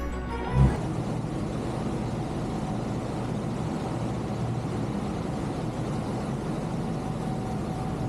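Cruise boat under way, a steady, even engine rumble and rush of passing air and water.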